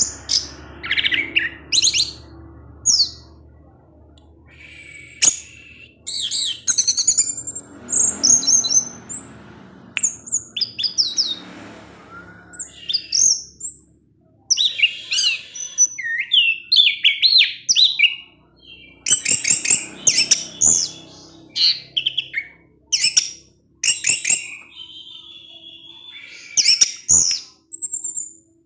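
Orange-headed thrush singing a long, rambling song of quick varied whistles, slides and chattering trills, delivered in bursts with short pauses between phrases.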